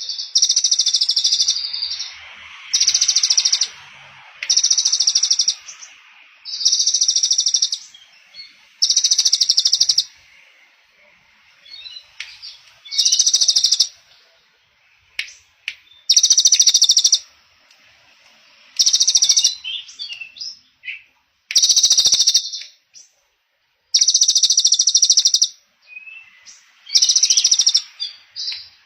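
A small songbird repeating a fast, buzzing trill phrase about a second long, roughly every two seconds, with short softer chirps between the phrases.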